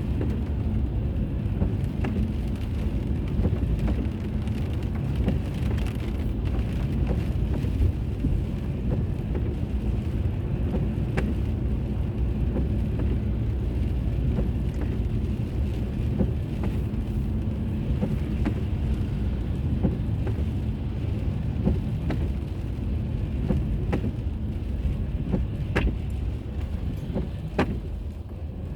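Car driving on a road: a steady low rumble of tyres and engine, with scattered faint clicks and ticks.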